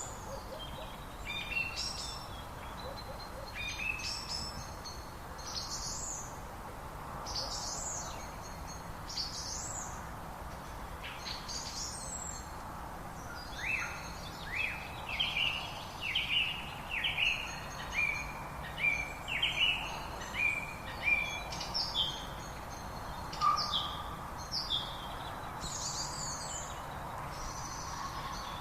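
Songbirds singing: short high chirps and whistles throughout, with a run of louder, quick, downward-slurred notes through the middle, over a faint steady hiss.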